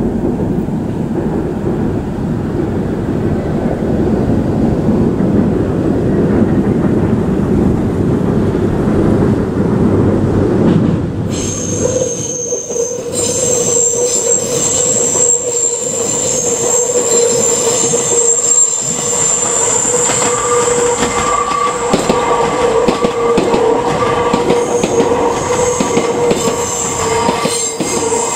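Meitetsu electric train passing: a heavy low rumble, then from about twelve seconds in a steady, shrill wheel squeal that holds to the end.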